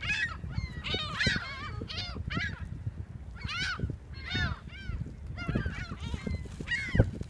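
A flock of seagulls calling over one another, many short calls in quick succession, while they are being fed. A single sharp thump near the end.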